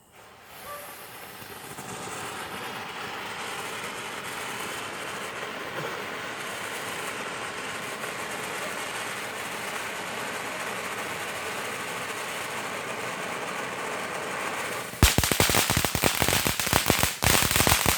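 A lit consumer firework hissing steadily for about fifteen seconds, then a rapid string of loud crackling bangs near the end.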